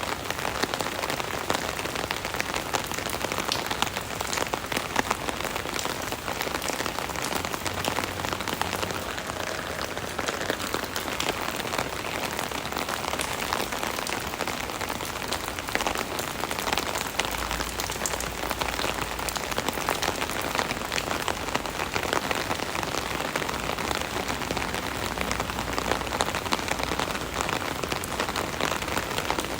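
Steady rain drumming on an umbrella canopy overhead: a dense patter of many small drop impacts, close to the microphone.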